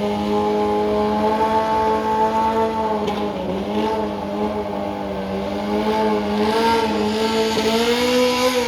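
Drag racing car's engine held at high revs in one steady, loud tone, dipping briefly about three seconds in and climbing a little near the end before cutting off suddenly.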